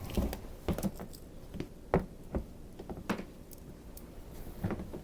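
Scattered light knocks and clicks of kitchen items being handled, about eight or nine irregular taps.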